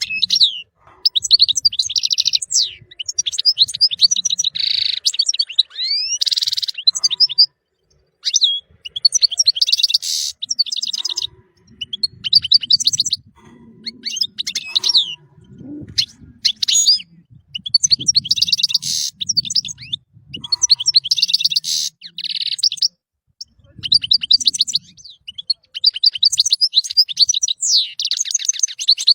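European goldfinch singing: bursts of rapid twittering, tinkling notes lasting one to a few seconds each, broken by short pauses.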